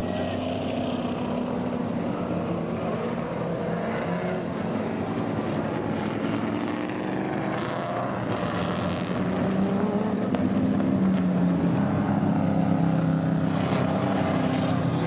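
Sports sedan race car engines running, a steady drone with a few rising revs, growing louder about ten seconds in.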